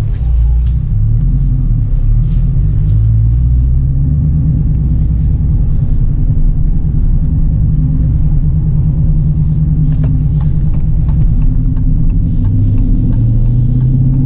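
Exhaust of a 2018 Dodge Challenger R/T Scat Pack's 6.4 L Hemi V8, its mufflers replaced by 2.75-inch straight pipes, with the resonators kept, giving a low rumble while driving. The engine pitch shifts up and down several times with engine speed. The active exhaust is not fully open, and the sound is not that loud at all.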